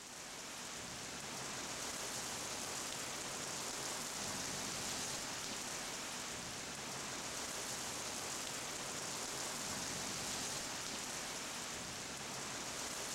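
Steady hiss of water spraying and drumming on a car, like heavy rain, with no breaks.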